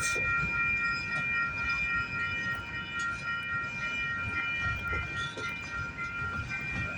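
Freight train of empty auto-rack cars rolling past: a low rumble of wheels on rail with a steady high-pitched ringing tone held over it and a few faint clicks.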